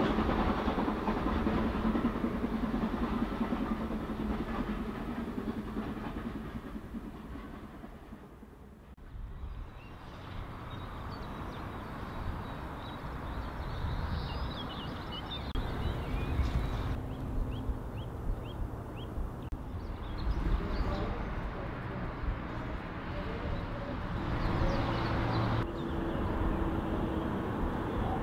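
A train running along the line, its wheels clicking over the rail joints, fading into the distance over the first eight seconds or so. After a quieter stretch, birds chirp, and near the end a steady low diesel hum of construction plant comes in.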